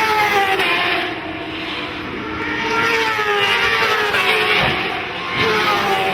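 Racing motorcycles passing one after another at high revs, each engine note falling in pitch as it goes by.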